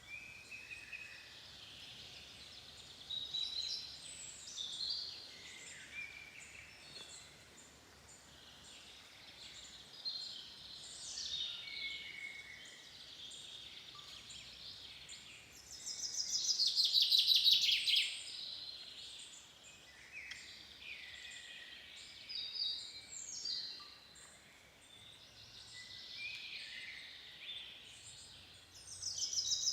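Several songbirds singing, with overlapping short high chirps and whistled phrases. A loud, rapid trill lasts about two seconds roughly halfway through, and another begins near the end.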